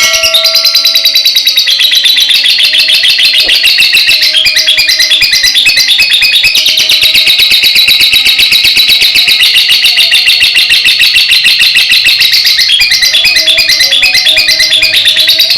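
Lovebird singing one long, unbroken, rapid chattering trill, the 'ngekek' song that Indonesian bird keepers prize in lovebirds.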